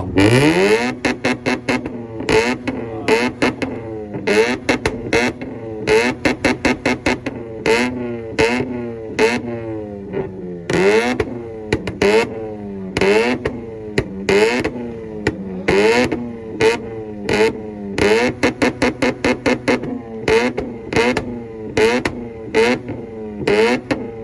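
Mazda rotary engine revved hard over and over, its pitch climbing and dropping roughly once a second, with many sharp bangs cracking through the revs.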